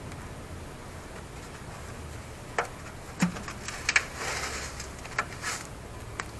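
Handling noises at a workbench: a few light clicks and knocks spread through the second half, with a short rustle or scrape near the middle.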